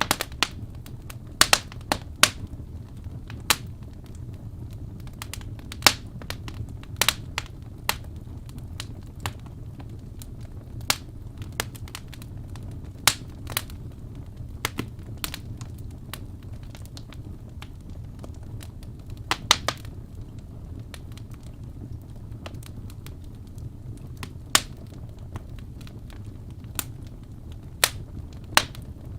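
Wood fire burning in a fireplace: irregular crackles and pops from the burning logs, a few of them sharp and loud, over a steady low rumble of the flames.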